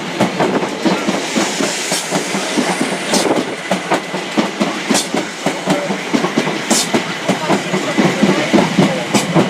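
Class 456 and Class 455 third-rail electric multiple units coupled together and approaching on the platform line, their wheels clattering in a steady run of clicks and knocks over the rail joints and points.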